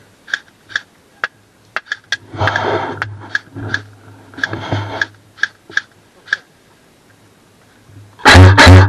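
A series of sharp clicks about every half second, with two short bursts of rustling among them. Loud plucked guitar music cuts in near the end.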